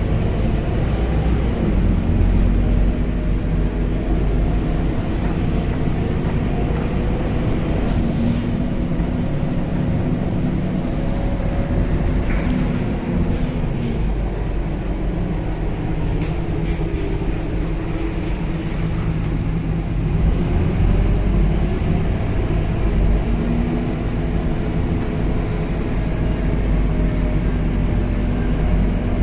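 Scania K270UB city bus's diesel engine and drivetrain running, heard from inside the passenger cabin: a steady low drone whose pitch drifts slightly up and down as the bus drives.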